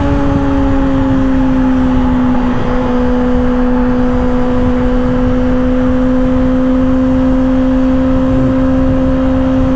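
2024 Kawasaki ZX-6R's inline-four with an M4 exhaust, cruising at steady high revs; its pitch eases down slightly over the first couple of seconds, then holds level. A steady rush of wind and road noise sits underneath.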